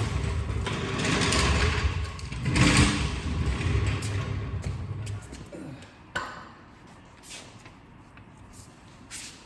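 A floor jack being rolled across the garage floor, rumbling for about five seconds, then a few sharp clanks as it is set in place.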